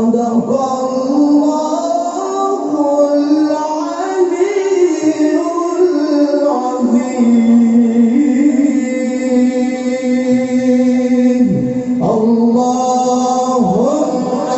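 A male qari reciting the Quran in the melodic tilawah style, drawing out long ornamented notes, with one note held steady for several seconds in the middle and short breaths near the end.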